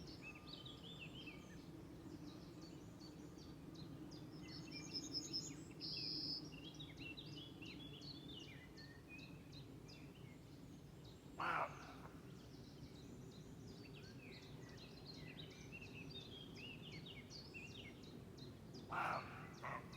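Wild outdoor animal chorus: many short, high chirping calls going on throughout over a steady low hum, with a louder short call about halfway through and a few more near the end.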